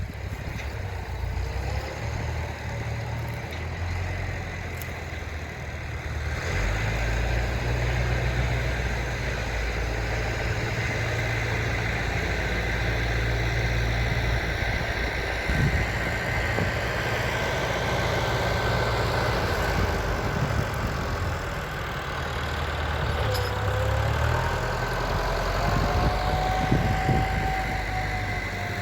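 Tractor engine running steadily, getting louder and heavier about six seconds in.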